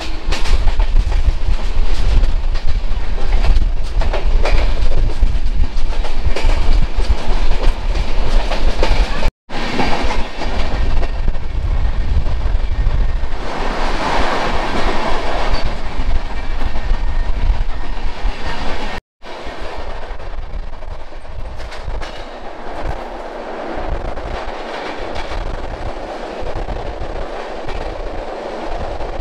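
Passenger train running at speed, heard at an open coach doorway: a loud, steady rumble with the clickety-clack of wheels over the rail joints. The sound drops out for an instant twice, and after the second break it is somewhat quieter.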